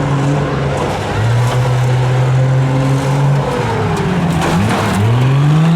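Stock pickup truck engine running hard and loud, holding a steady pitch at first, then revving down and up several times and climbing again near the end.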